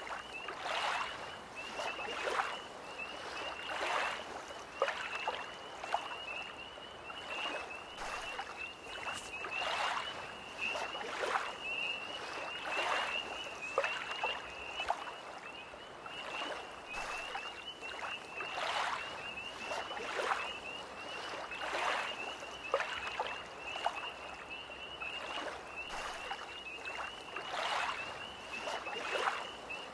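Small lake waves lapping irregularly at the shore, a soft splash every second or so, under a continuous high, fast trilling chorus of tree frogs.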